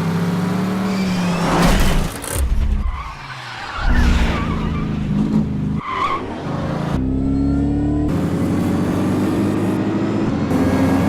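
Cars racing in a chase, engines revving hard and tyres squealing and skidding. The sound changes abruptly several times, as shots are cut together.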